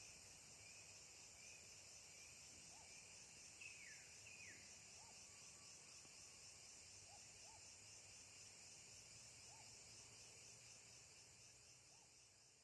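Near silence with a faint, steady high insect drone, and a few faint short chirps, two of them falling in pitch about four seconds in.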